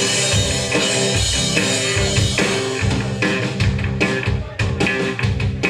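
Punk rock band playing live: electric guitar, bass and drum kit in an instrumental passage between sung lines. Near the end the band plays a run of separate, stop-start hits.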